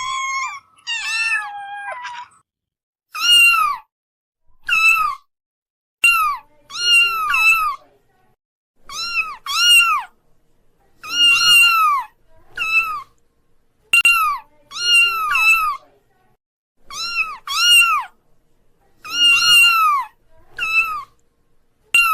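Kitten mewing over and over: short, high-pitched meows that rise and fall, often in quick pairs, roughly one a second, with a few longer, drawn-out calls at the start.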